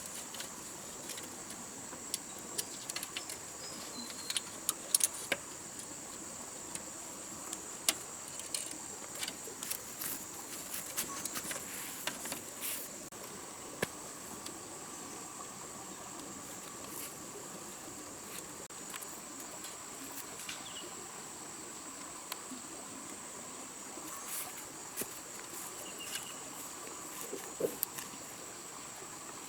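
Steady high-pitched drone of rainforest insects, crickets or cicadas, with scattered light clicks and taps that are most frequent in the first half.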